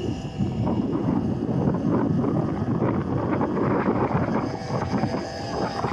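Wind buffeting the microphone of an electric dirt bike riding through sand, over a faint, steady, high whine from the electric motor.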